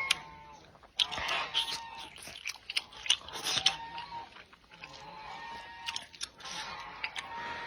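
Close-miked eating sounds: a person chewing and biting food, with irregular small clicks and wet mouth noises.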